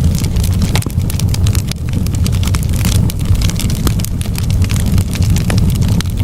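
Bonfire burning: irregular sharp crackles and pops of burning wood over a steady low rumble.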